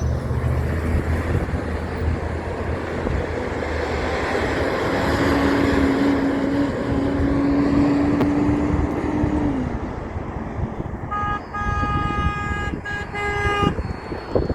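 A big truck passing loudly with a long air-horn blast that falls in pitch as it ends. Then a second, higher-pitched horn sounds in a few short blasts near the end.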